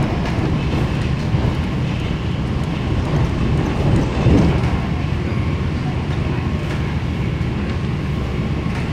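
Running noise of an MTR K-Train electric multiple unit at speed, heard from inside the passenger car: a steady rumble of wheels on rail with a low hum, louder for a moment about four seconds in.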